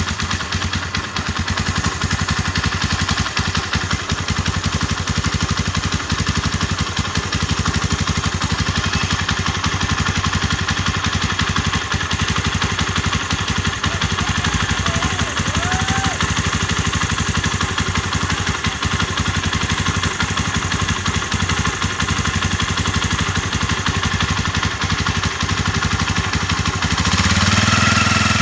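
RKS 150 Sports Evo motorcycle's 150cc engine idling steadily, after an oil leak on the engine was sealed with Max Bond epoxy. Near the end it picks up briefly and gets louder.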